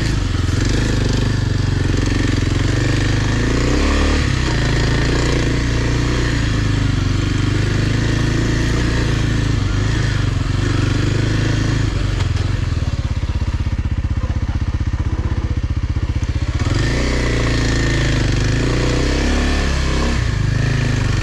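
Kawasaki dirt bike engine running on and off the throttle, with a few seconds past the middle where it drops to a lower, steady pulsing note before picking up again.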